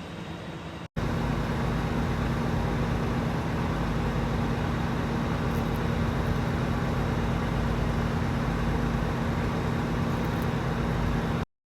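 Vehicle engine running steadily with a constant low hum. It cuts in abruptly about a second in and stops suddenly near the end.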